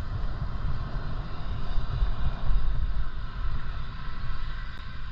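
Wind buffeting the microphone of a moving bicycle: an uneven low rumble with a steady hiss above it.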